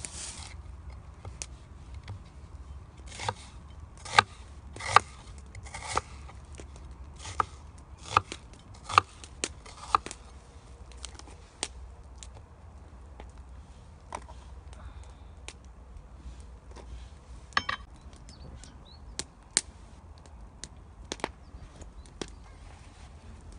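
Chopping: a series of irregular sharp knocks, most of them between about three and ten seconds in, then a few scattered strikes, over a steady low rumble.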